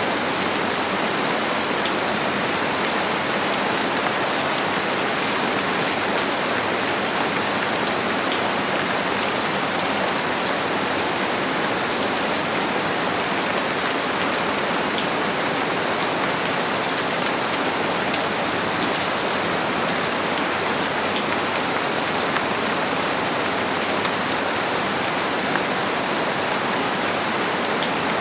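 Steady rain falling, an even hiss of many small drops pattering on surfaces, with no thunder.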